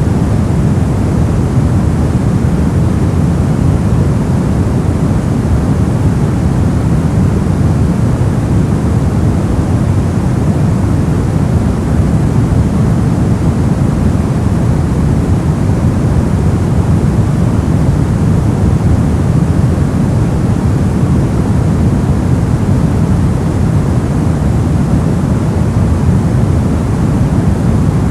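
Steady, unchanging noise-for-sleep track: an even rushing hiss, fullest in the low range and thinning toward the top.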